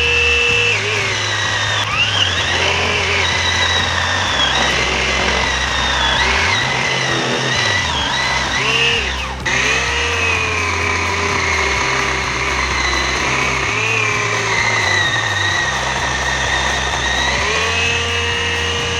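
Einhell GE-LC 18/25 Li cordless battery chainsaw running and cutting wood, its electric motor whine dropping in pitch as the chain bites under load and rising again when it frees, over and over.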